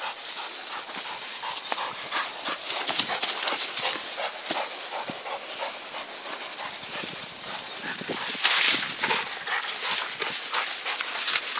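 Shepherd dogs attacking a wild boar: irregular dog noises and scuffling, loudest about eight and a half seconds in.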